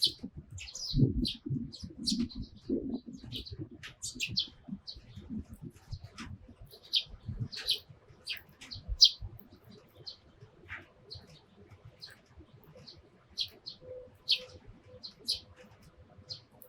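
Eurasian tree sparrows chirping: many short, high chirps, irregular and often several a second. There is low rustling and thumping in the first few seconds.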